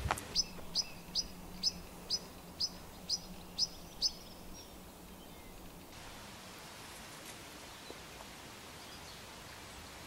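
A small bird singing a run of about nine short, high, downslurred notes, about two a second, that stops after about four seconds.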